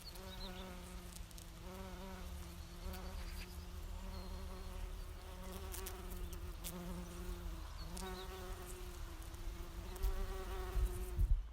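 Bumblebee buzzing, a steady hum that wavers a little in pitch, over a low rumble that grows louder near the end.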